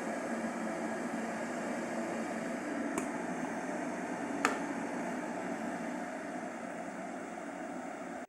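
Electric tea maker running with a steady hum and hiss, broken by two sharp clicks about a second and a half apart.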